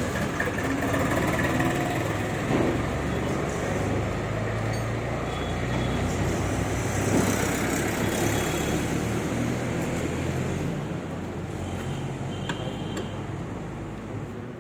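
Motor vehicle running: a steady low engine hum under road and traffic noise.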